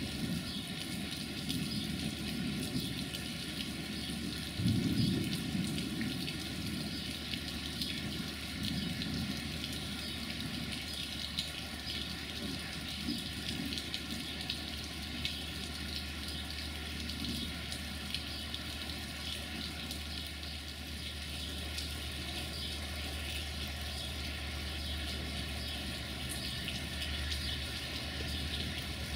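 Steady rain hissing down, over the low, even drone of a GM-engined diesel locomotive running in slowly, its drone firming up near the end. A brief low rumble about five seconds in.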